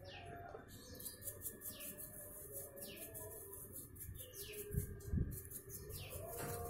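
A bird repeats a short call that falls in pitch, about once a second. Under it a part is brushed and scrubbed inside a metal tin, with two dull knocks about five seconds in.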